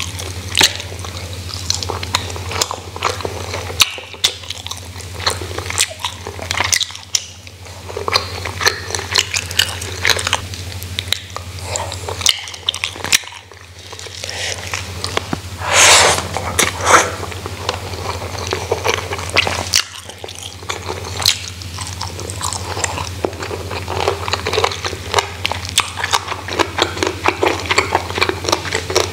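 Close-up eating sounds: a person chewing mouthfuls of rice and side dishes with wet smacks, lip clicks and occasional crunches, with one louder burst about halfway through. A low steady hum sits underneath.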